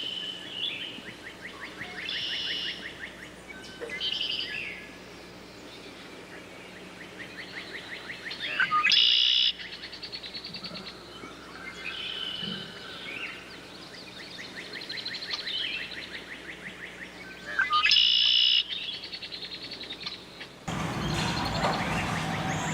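Songbirds singing: rapid trills and chirps, with a louder bright phrase that comes twice, about nine seconds apart. About two seconds before the end the birdsong gives way abruptly to a fuller, noisier sound.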